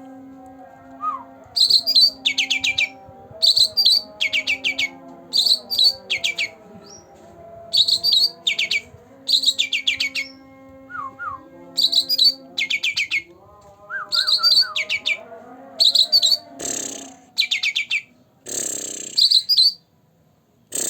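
Cucak ranting bird repeating a fast, dry rattling call in short clusters about once a second, over low held tones. Near the end there are two short rushing noises, and the calling stops just before the end.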